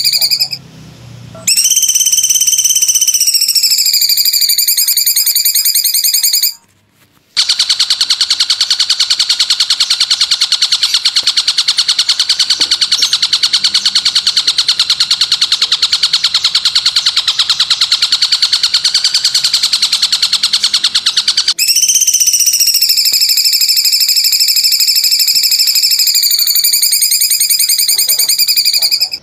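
Songbird song from a masteran training recording. It begins with long, high whistled notes that dip and rise in pitch. Near the quarter mark it switches to a fast, even rattling trill lasting about fourteen seconds, then returns to drawn-out whistles.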